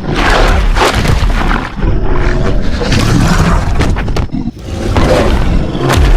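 Loud animal roars from a sound-effects track, in three long stretches one after another, with music and booming under them.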